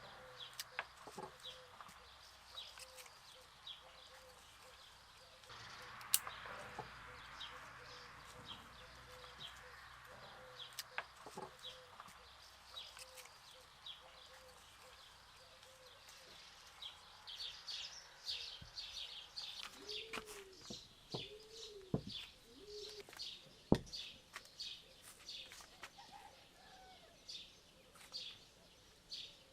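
Chickens clucking, with short high chirps repeating throughout and a few low, arching calls about twenty seconds in. A few sharp knocks are scattered through it.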